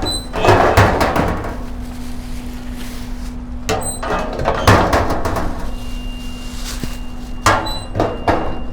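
A series of knocks and clattering thuds, about six separate bursts, over a steady low hum.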